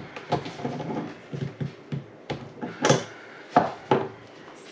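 Small clicks and knocks of faucet parts and tools being handled and set down while a faucet is put back together after a cartridge change. A run of light taps, with the sharpest knocks about three and three and a half seconds in.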